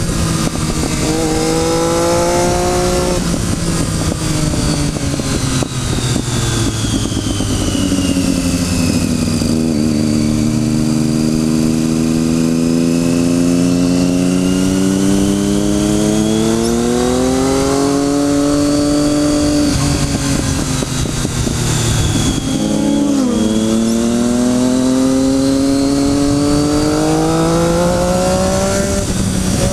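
Motorcycle engine pulling hard through the gears with a steady rushing noise underneath. Its pitch climbs, drops back at each shift or roll-off, and climbs again, with sharp drops about 3 seconds in, about two-thirds of the way through and soon after, and a long slow climb in the middle.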